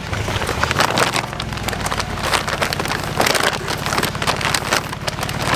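Sewing machine running steadily, its needle stitching fast through woven polypropylene grain-sack canvas, with the stiff sack material crackling and rustling as it feeds through.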